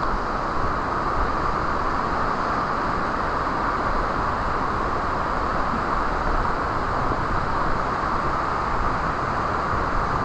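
Steady roar of rushing water from a waterfall, an even continuous rush with a deep rumble underneath.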